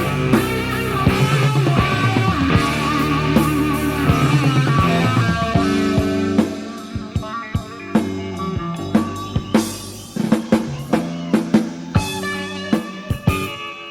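Hard rock band playing an instrumental passage with no vocals: a dense full-band section with guitar, bass and drums, which thins out about six seconds in to sparser playing punctuated by separate drum hits.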